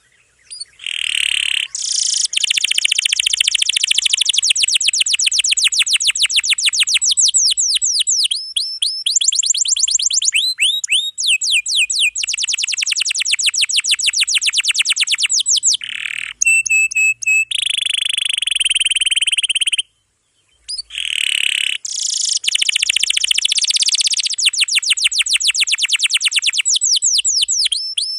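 Domestic canary singing long, fast rolls: runs of rapidly repeated high notes several seconds long, broken by brief pauses, with a short silence about two-thirds of the way through.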